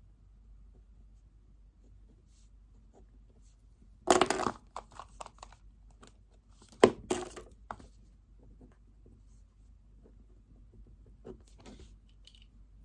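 Things being handled on a study desk: a loud rustle about four seconds in, then a sharp tap with more rustling just before seven seconds, and a few faint rustles near the end.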